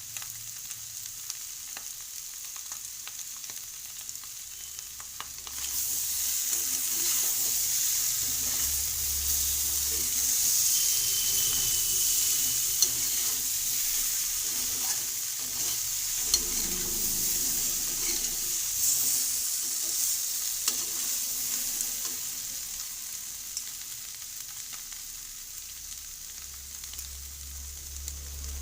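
Spiced potatoes frying and sizzling in a pan as they are stirred, with occasional clicks of the spoon against the pan. The sizzle grows louder about six seconds in and eases off toward the end.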